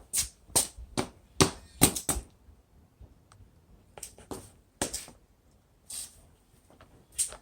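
A series of short, sharp knocks and taps at uneven intervals: about half a dozen in quick succession, then a pause, then a few more.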